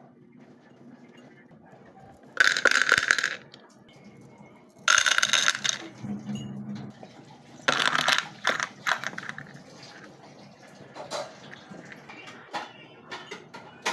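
Clattering of small hard objects: three loud bursts of rattling about 2.5, 5 and 8 seconds in, with lighter scattered clicks and taps between and after.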